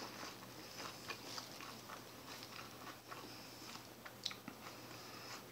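Faint chewing and crunching of a mouthful of salad, with scattered small clicks and a sharper click about four seconds in.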